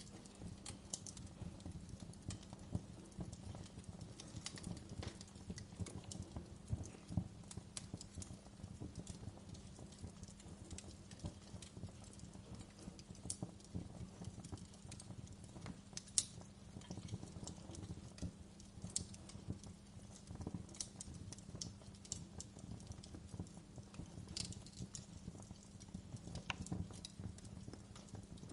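Wood fire crackling: a steady low rumble with dense, irregular pops and a few sharper snaps of burning wood.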